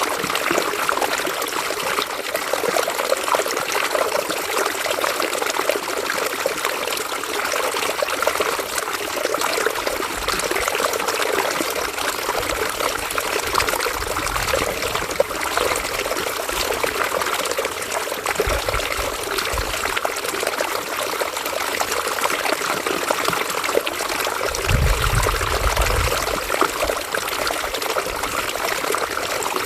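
River water flowing and trickling over stones, a steady, even rush. A few brief low rumbles come and go beneath it.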